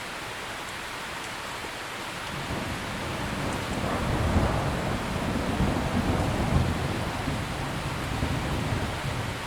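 Steady heavy rain with a long, low rumble of thunder that builds about two seconds in, is loudest in the middle and fades away near the end.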